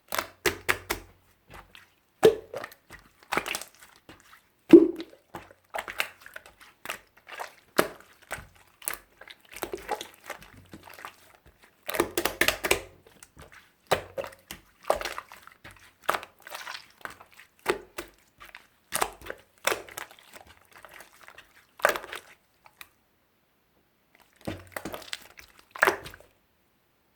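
Clear slime being squeezed, stretched and poked by hand: irregular sticky clicks, pops and squelches, which stop near the end.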